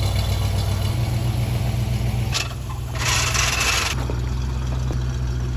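Lifted 1969 4x4 Camaro's engine idling steadily, with a hiss for about a second near the middle.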